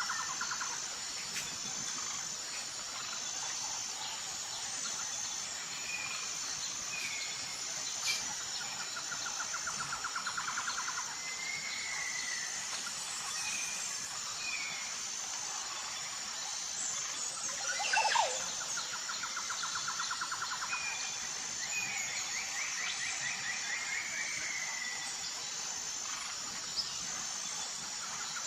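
Tropical forest ambience: a steady high-pitched, pulsing insect chorus under birds whistling and chirping. A rapid trill repeats about every ten seconds, and one louder sweeping call rises and falls a little past halfway.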